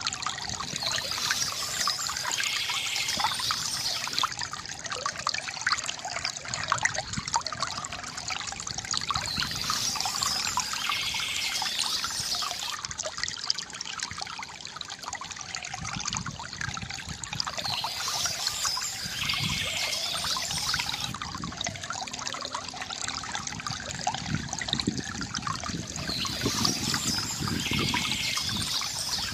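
Water trickling and splashing from a bamboo fountain in a continuous flow. A brighter, higher splashing pattern comes back about every eight to nine seconds.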